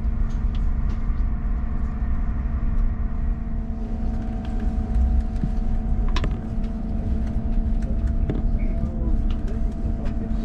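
SJ X2000 electric high-speed train running: a steady low rumble with a steady hum of several tones, and a few clicks and knocks, the clearest about six and eight seconds in.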